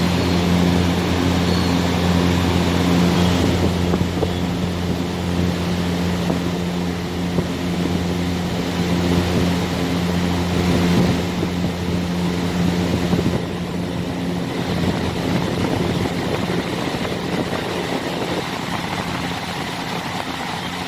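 Exhaust fans running steadily: a constant motor hum with a broad rush of moving air as they blow air outward.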